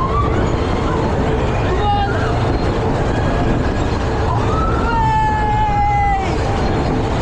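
Steady loud rumbling noise of a fairground ride in motion, with people's voices crying out in long, high, held calls; the longest comes near the end.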